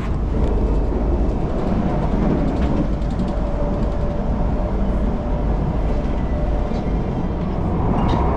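Steady low rumble inside the carriage of an ETS electric passenger train, with a faint steady whine partway through.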